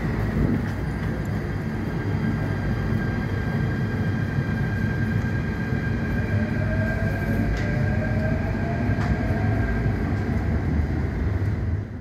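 MTR electric metro train moving at a station platform: a steady rumble of wheels on the rails with a steady high-pitched tone, and a motor whine that rises slowly in pitch over the second half.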